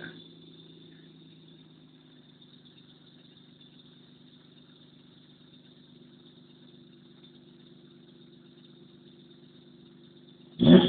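Mazda 626 engine idling after a cold start with a steady high-pitched squeal from the engine's drive belt, which the owner guesses is the alternator belt, though the belts are on tight. Near the end a sudden loud burst comes in and the squeal grows louder, then fades.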